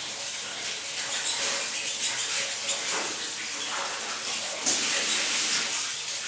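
Steady hiss of water spraying or running in a small bathroom while a pet bird is washed.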